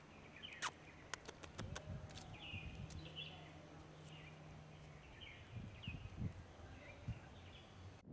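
Faint birds chirping on and off in short repeated calls, with a quick run of sharp clicks about a second in and a few soft low thumps later.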